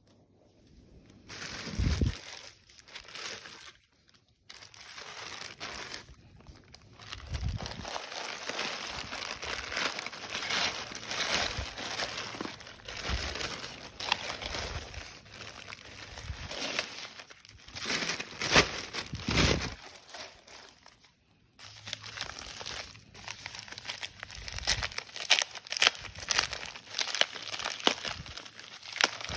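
Packaging crinkling and rustling as a parcel is unboxed, dense with small crackles, with a few soft thumps, the loudest about two seconds in, and a brief pause a little past two-thirds of the way through.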